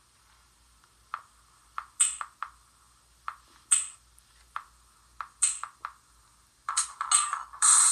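Electronic sample hits triggered one at a time on a Launchpad music app, each a short sharp sound that dies away quickly, spaced roughly half a second to a second apart. About a second before the end a dense, loud, noisy layer kicks in.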